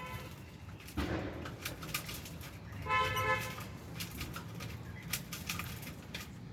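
Aviary lovebirds and budgies with short chirps and clicks, over a steady low hum, and one brief steady tooting note about three seconds in.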